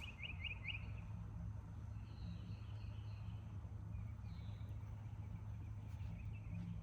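Birds chirping: a quick run of four chirps at the start, then scattered chirps and short warbles, over a steady low hum.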